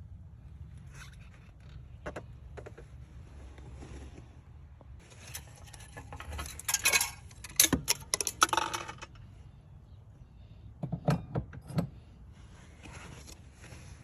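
Small metal objects clinking and scraping as they are handled, in two bursts, over a steady low hum.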